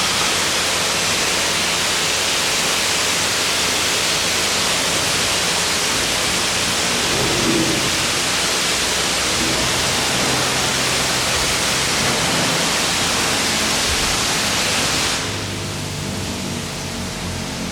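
High-pressure water spray from a self-service car wash wand, a steady hiss that cuts off suddenly about 15 seconds in.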